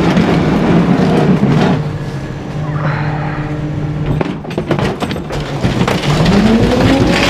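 Garbage truck working its rear packer: a dense crushing racket for about two seconds, then the truck's engine humming steadily with a few knocks, and the engine pitch rising about six seconds in as it revs up.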